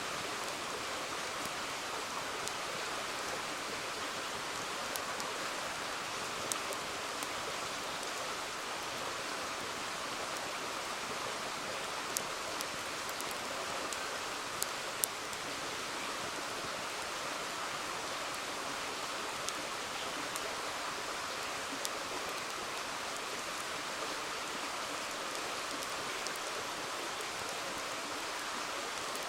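River water flowing steadily, with scattered sharp crackles and pops from a wood campfire, a dozen or so spread unevenly.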